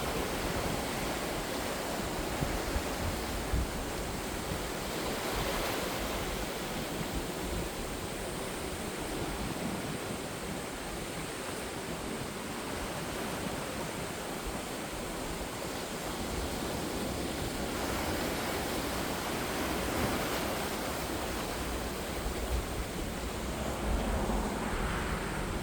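Sea waves breaking and washing on the shore, a steady rushing noise that swells a few times.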